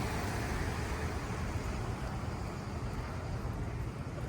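Road traffic on wet streets: a steady hiss of tyres and engines that fades slowly over the first couple of seconds, then holds level.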